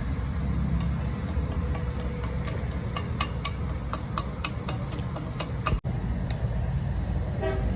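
Steady low rumble of vehicle traffic or a running engine, with a run of light, sharp clicks or taps over several seconds that stop near the end.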